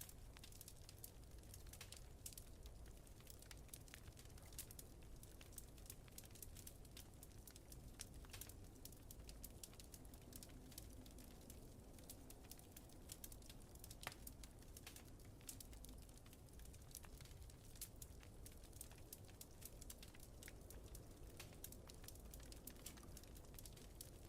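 Faint crackling wood fire, with frequent small sharp pops over a low steady rumble of wind.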